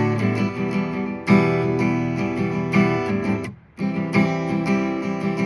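Acoustic guitar strumming chords in an instrumental break of a song, stopping for a brief moment about three and a half seconds in before picking up again.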